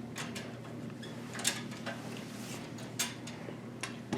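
A few short, sharp clicks and taps from hands handling computer parts, the loudest about a second and a half in and again about three seconds in, over a low steady hum.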